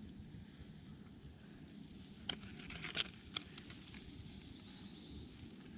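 A campfire burning low under a grill grate of cooking chicken, with three sharp clicks a little past the middle. A faint high pulsing trill runs through the second half.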